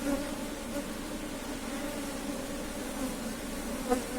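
Africanized honey bees buzzing around an opened hive during a frame inspection: a steady, even hum, with a faint tick near the end.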